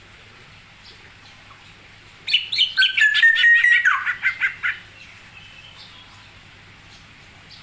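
A songbird singing one loud phrase about two seconds in: a quick run of notes, then a row of even whistled notes ending in a downward slur, with a few softer notes trailing off.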